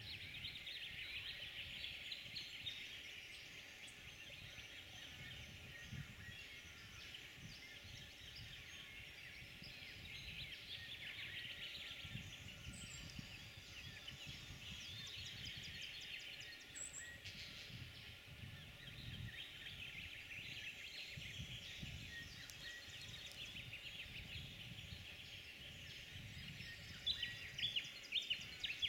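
Birds calling and chattering continuously, with a louder run of rapid calls near the end.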